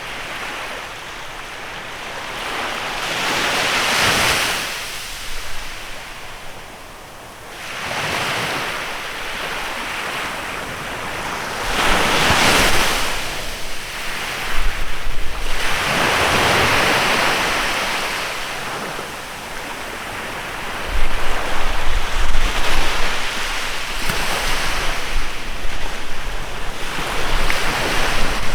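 Waves breaking and washing on a bay shore, the surf swelling and fading every few seconds. Wind gusts buffet the microphone in the second half.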